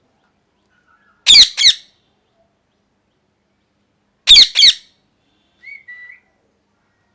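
Ringneck parrot squawking: two loud, harsh double squawks, each two quick notes, about three seconds apart.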